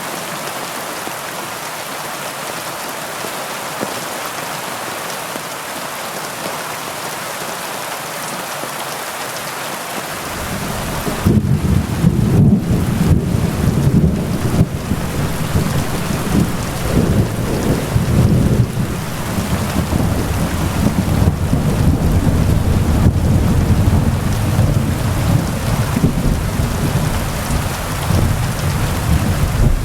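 Heavy rain falling steadily. About ten seconds in, a long low rumble of thunder sets in and keeps rolling, louder than the rain.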